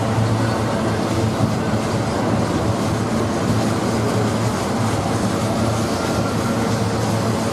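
Freight train passing, with the steady hum of diesel locomotive engines over the continuous rumble of the train rolling on the rails.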